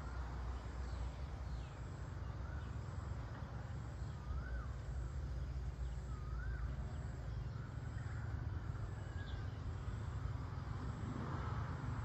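A few faint bird calls, short whistled notes that rise and fall, the clearest about four and a half and six and a half seconds in, with thin high chirps in between, over a steady low rumble.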